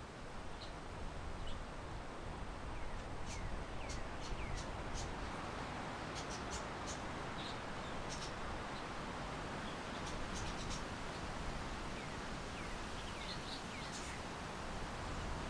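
Steady wind and outdoor background noise with small birds chirping now and then, short high calls, several gliding down in pitch.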